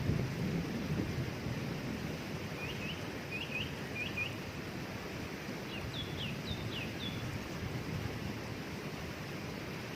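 Waterfall rushing steadily, with a small bird chirping over it in short high notes: a run of quick chirps about a quarter of the way in and another just past the middle.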